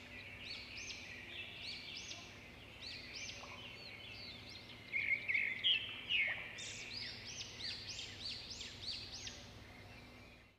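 Small birds chirping and twittering in quick runs of short, repeated notes over a faint steady hum. The sound cuts off suddenly at the very end.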